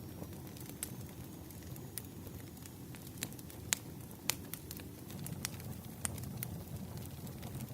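Wood campfire burning, a low steady rumble with irregular sharp crackles and pops from the burning logs, two louder pops near the middle.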